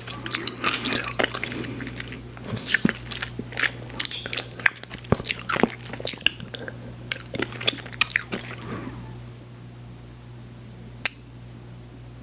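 Close-miked chewing of chewy sweets, full of quick wet mouth clicks and crackles, stopping about nine seconds in. A single sharp click comes near the end.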